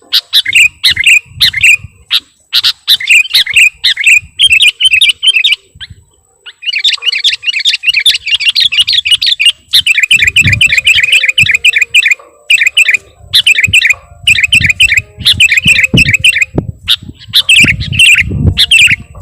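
Sooty-headed bulbul (kutilang) calling in a rapid run of short, bubbly chirps, with a dense burst of chatter in the middle. A bird-trapper's lure recording. Low rumbles come in a couple of times in the second half.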